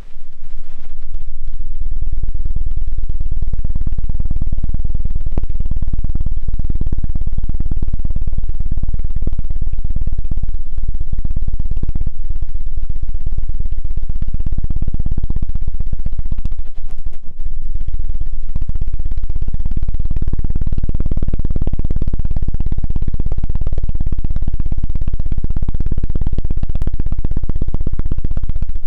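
ASMR 'helicopter' ear-cleaning trigger: the ears of a binaural microphone are fluttered and rubbed very rapidly, giving a loud, deep, fast pulsing like a helicopter's rotor. It goes on without a break except for a short dip about two-thirds of the way through.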